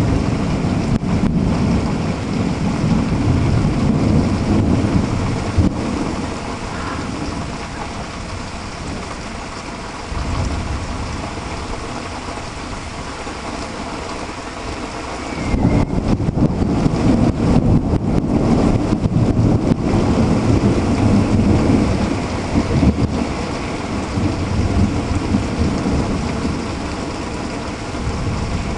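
Heavy rain falling steadily under rolling thunder. The rumble is loud at first, dies down, then builds again about halfway through before easing off.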